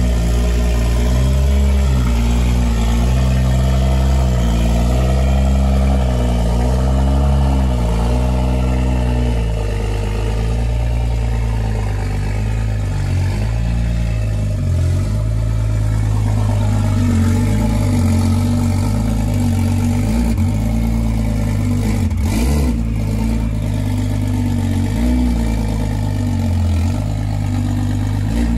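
BMW M4's S55 inline-six, converted to a single Garrett G40-1050 turbo, running at idle. Its pitch wavers up and down for the first nine seconds or so, then settles to a steadier idle.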